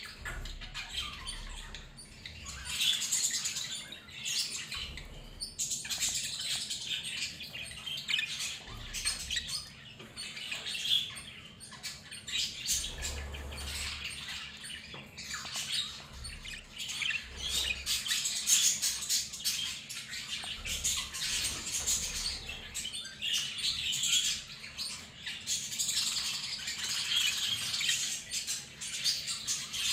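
A group of show budgerigars chirping and chattering together: a dense, unbroken twitter of many short high calls.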